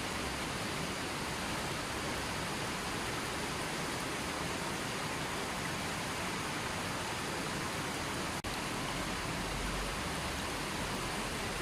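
River water flowing, a steady even rush, with a momentary drop in level about eight seconds in.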